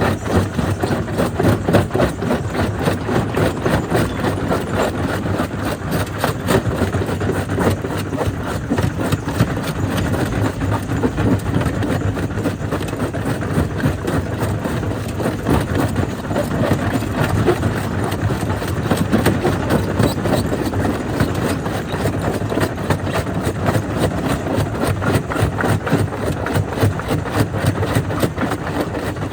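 Jaw crusher running and crushing stone: a steady machine drone under a dense, continuous clatter of rock breaking and knocking in the jaws.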